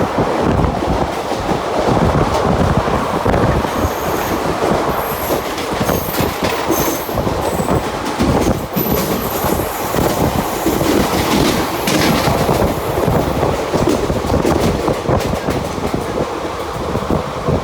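Mumbai suburban local train running along the track, its wheels clattering over the rails, with high squeals from the wheels through the middle of the stretch.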